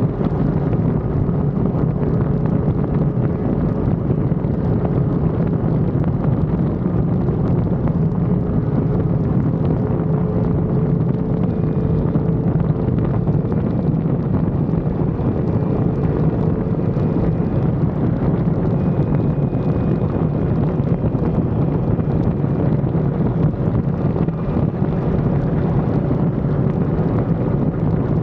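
Sport motorcycle riding at a steady cruising speed, its engine note holding nearly level under heavy wind rush buffeting the action camera's microphone.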